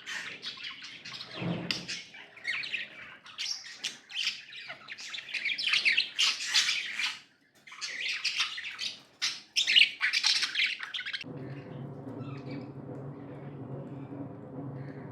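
Budgerigars chirping and chattering with squawks in dense, rapid bursts. About eleven seconds in they cut off abruptly and a steady low hum takes over.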